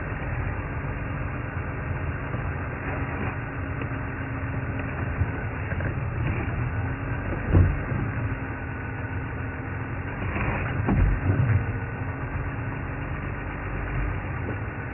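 Safari game-drive vehicle's engine running steadily with a low rumble, with a few short knocks or thumps about halfway through and again later.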